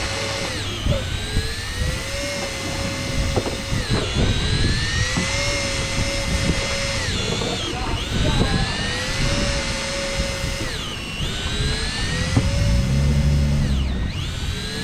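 Small electric motor whining, its pitch rising slowly and then dropping sharply about every three seconds, over a steady low rumble.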